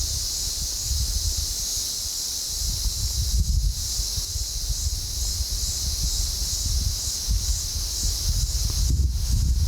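Strong gusty wind rumbling on the microphone, over a steady high hiss.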